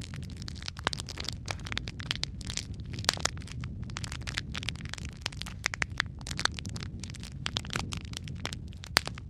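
Fireplace fire crackling, with frequent irregular sharp pops over a steady low rumble; a louder pop comes near the end.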